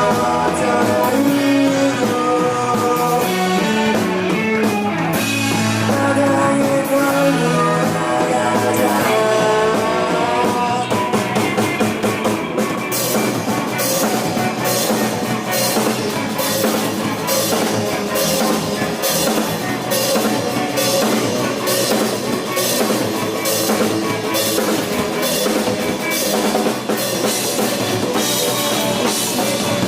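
Rock band playing live: guitars, bass and drum kit in an instrumental passage. A sustained melody line leads for about the first twelve seconds, then the drums come forward with a steady cymbal beat.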